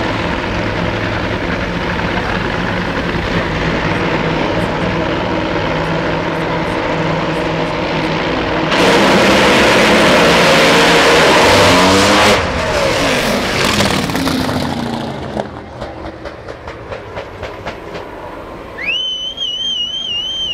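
Top Fuel Funny Car's supercharged nitromethane V8 running steadily, then launching at full throttle about nine seconds in: a very loud blast from the zoomie headers that lasts about three and a half seconds. Its pitch then falls as the car pulls away, and it fades out with crackling. Near the end there is a high warbling whistle.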